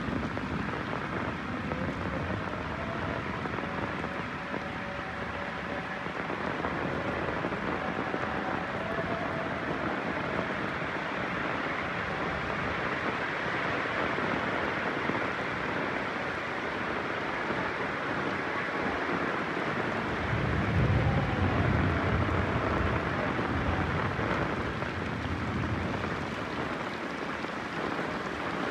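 Heavy rain falling steadily, with a low roll of thunder rumbling about two-thirds of the way through.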